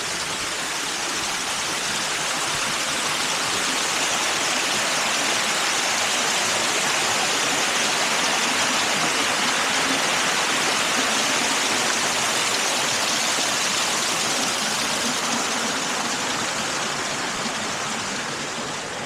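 Fast-running floodwater from a river swollen after heavy rain, rushing steadily. It builds a little toward the middle and eases near the end.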